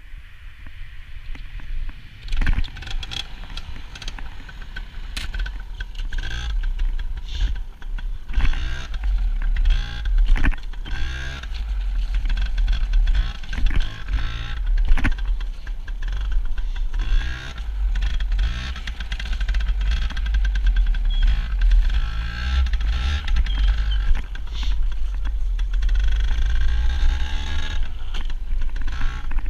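Yamaha PW80's small single-cylinder two-stroke engine revving up and down repeatedly while being ridden, over a heavy low rumble. It is quieter for about the first two seconds, then the revs keep climbing and dropping.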